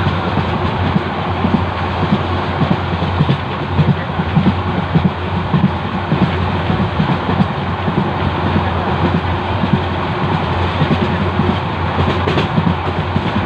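A passenger train running along the track, heard from inside a coach by the window: a steady low rumble of the wheels on the rails.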